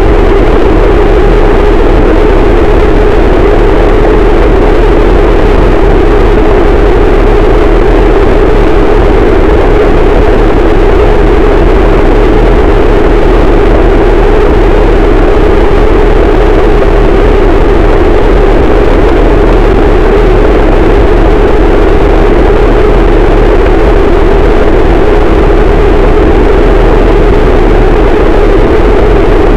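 Harsh noise wall: a dense, static wall of distorted noise played very loud and unchanging, heaviest in a low-mid band with a deep rumble beneath.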